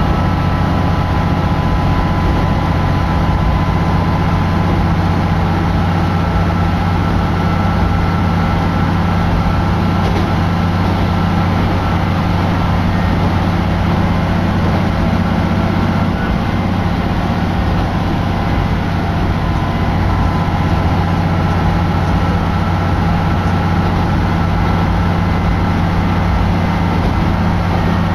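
Steady low drone of a diesel railcar's engine heard from inside the passenger cabin while the train is running.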